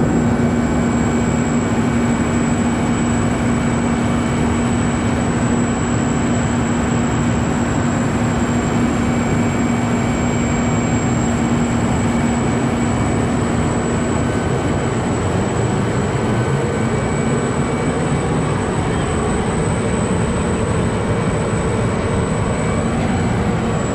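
Heavy diesel machinery running steadily and loudly, with a steady low hum that drops away a little past halfway.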